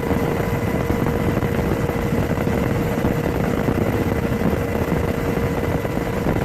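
Steady machinery noise from an engine, with a constant hum running through it and no change in level.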